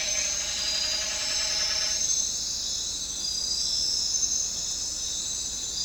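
Dense, steady high-pitched chorus of jungle insects, crickets or cicadas, shrilling together. A lower buzzing tone with many overtones runs under it and stops about two seconds in.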